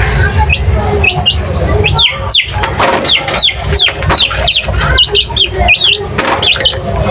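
Small birds chirping busily, with many quick, high, downward-sliding chirps overlapping several times a second over a steady low rumble.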